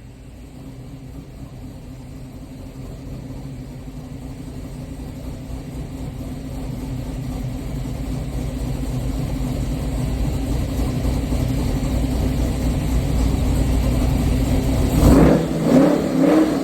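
Swapped-in 6.0 LS V8 of a G-body Cutlass running with a steady low rumble that grows slowly louder, then revved in two short blips near the end.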